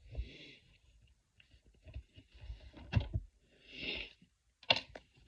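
Soft breaths and a few quick clicks in a small room, with a cluster of sharp clicks near the end.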